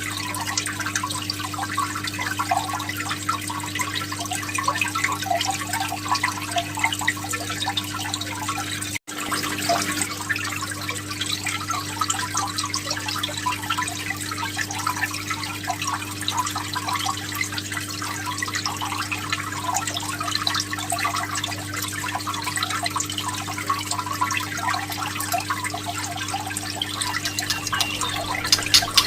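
Water trickling and dripping in a steady patter, over a constant low hum. The sound drops out for an instant about nine seconds in.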